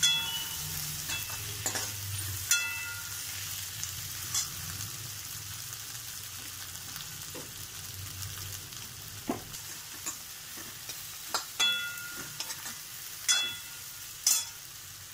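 Okra frying in oil in a kadai, a steady sizzle, with a steel spoon knocking and scraping against the pan now and then; a few of the knocks ring briefly.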